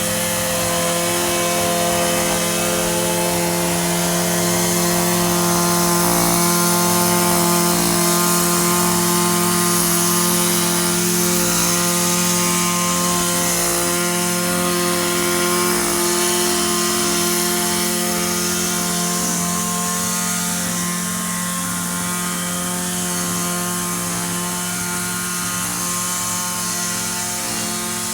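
Echo SRM-2620 string trimmer's two-stroke engine running steadily at one constant speed, its pitch unchanging, easing off slightly in loudness in the second half.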